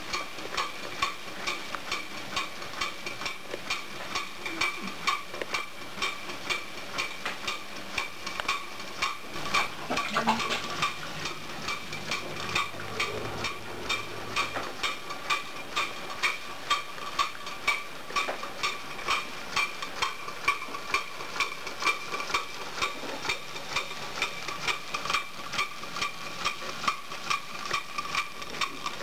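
Markie model steam road locomotive's engine running under steam: a steady, quick, regular knocking of exhaust beats and moving parts, with a thin steady tone underneath.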